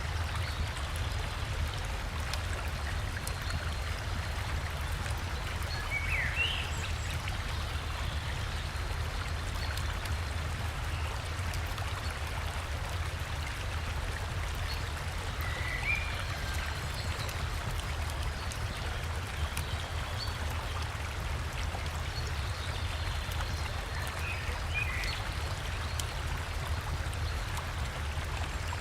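River water flowing steadily, with a low rumble beneath it, and a bird giving a short chirping call three times.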